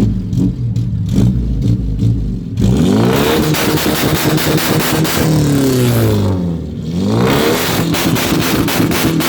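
Car engine, called a Soviet muscle car, idling unevenly with a choppy, clicky exhaust, then revved twice, its pitch climbing and falling back each time.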